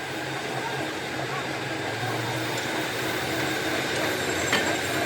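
Steady machine noise with a constant low hum, like a motor running without a break; a faint click near the end.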